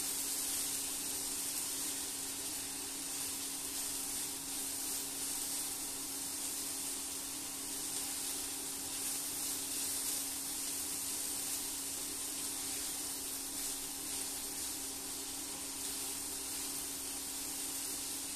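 Mixed vegetables sizzling in a nonstick frying pan on an induction cooktop as they are stirred with a spatula: a steady hiss, with a steady low hum underneath.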